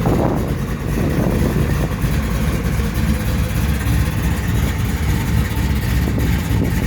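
Fully built, internally balanced 400 small-block V8 in a 1989 GMC pickup idling steadily.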